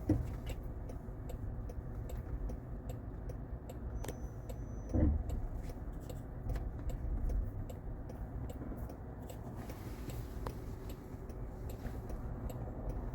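Car cabin road noise as the car drives, with a steady light ticking at about two ticks a second and one low thump about five seconds in.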